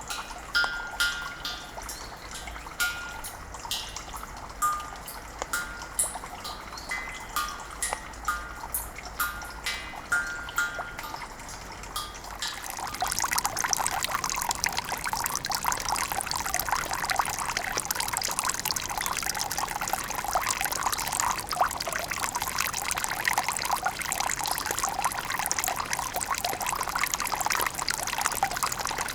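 Suikinkutsu (water harp cave): water drops falling into the buried jar give clear, bell-like ringing tones, about one every second. About 13 seconds in, a steady rush of pouring, trickling water takes over and drowns them.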